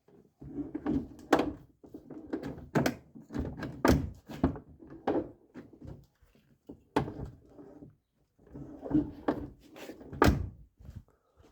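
Renault Mégane 3 door checks creaking and clunking as a car door is swung open and shut several times, with a series of sharp knocks. The creak comes from the check rollers no longer turning on the polished check arm, which the owner cures by cleaning and roughening them.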